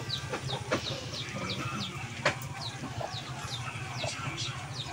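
A small bird cheeping over and over, short high notes that fall in pitch, about three a second. A single sharp knock a little after two seconds in.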